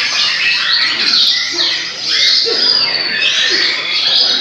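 Several white-rumped shamas (murai batu) singing at once, overlapping whistled and warbled phrases that sweep up and down in pitch, with no pause.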